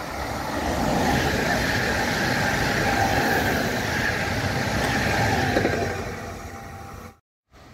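A train passing at speed: a steady rush of wheels on rail that swells in about the first second, holds, then fades and cuts off suddenly about seven seconds in.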